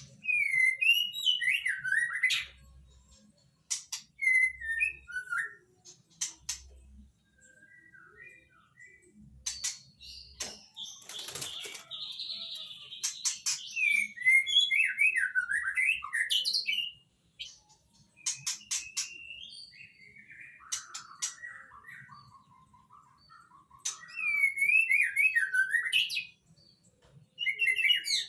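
White-rumped shama (murai batu) singing in full voice: phrases of fast, varied whistles and chirps lasting a few seconds each, with short pauses between them. A brief rustling burst comes about eleven seconds in.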